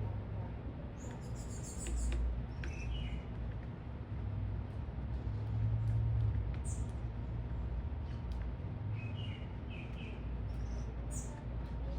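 Small birds chirping at a feeder: scattered short high chirps, with a lower two-note call about three seconds in and again near nine to ten seconds, over a steady low rumble.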